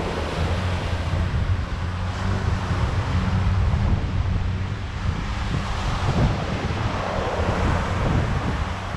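Sea waves washing onto a sandy beach, swelling about six seconds in, with wind buffeting the microphone in a low rumble.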